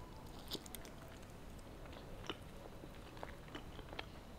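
Faint chewing of a mouthful of beef with June plum salad, with scattered small clicks and crackles as it is chewed.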